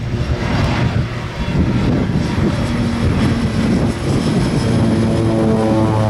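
Propeller-driven commuter plane passing close by, its engine drone steady, with a pitched hum that grows clearer and louder toward the end.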